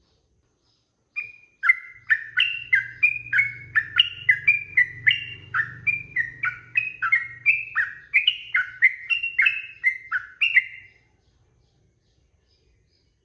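Yellow-vented bulbul (trucukan) singing one long, rapid run of bubbly, warbling notes that rise and fall, starting about a second in and stopping a couple of seconds before the end.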